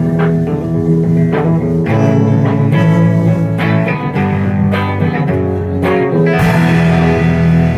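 Live band playing an instrumental stretch of a song: plucked guitar over a bass line, with no singing.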